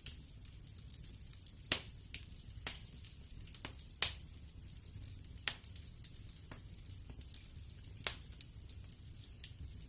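Wood fire in a fireplace crackling: a low steady rumble of the flames with irregular sharp pops and snaps, the loudest about four seconds in and again near eight seconds.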